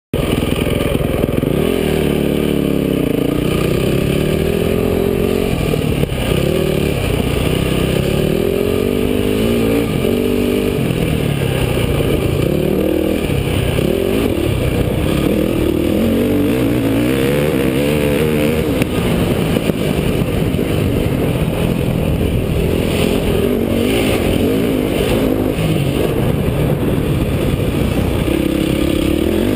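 Motocross dirt bike engine revving up and down over and over as it is ridden hard around a track, the pitch climbing and dropping every second or two.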